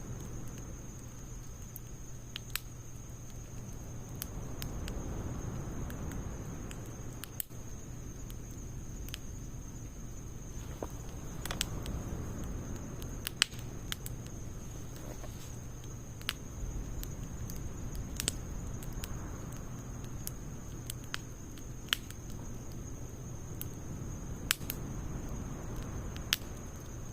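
Wood fire burning in a Snow Peak steel fire stand, crackling with irregular sharp pops over a low, steady rush of the flames.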